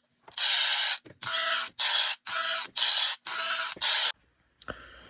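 Electronic noise from a home-made circuit and small speaker inside an HO-scale model boxcar: a string of about seven short bursts of static, roughly two a second, which stop about four seconds in. The cause is unknown; the owner calls them spooky noises.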